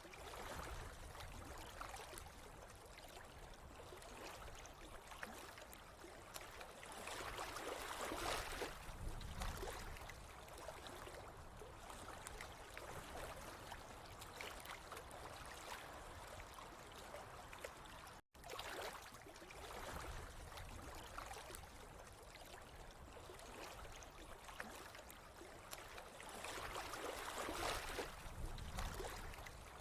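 Faint, steady flowing and gurgling water, swelling louder twice, with a split-second dropout partway through.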